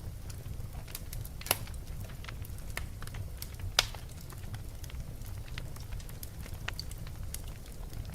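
Wood fire burning in a fireplace: a steady low rumble of flames with scattered crackles and snaps, and two louder pops about two seconds apart.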